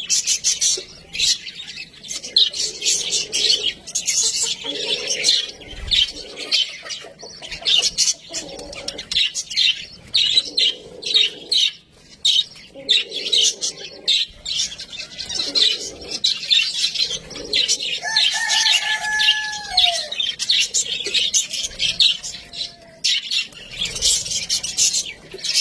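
Budgerigars chattering and warbling in a fast, continuous run of chirps and clicks, with a held whistle that falls in pitch about eighteen seconds in.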